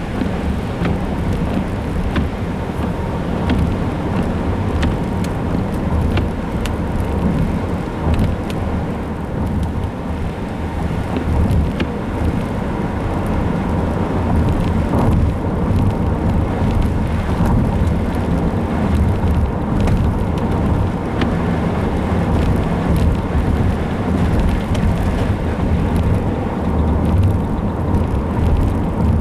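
Steady low rumble of a vehicle on the road, with a few faint ticks over it.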